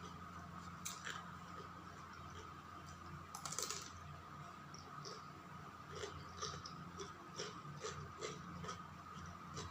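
Eating sounds: short wet clicks of chewing, with a brief noisy burst a few seconds in and a run of about two clicks a second near the end, over a steady faint hum.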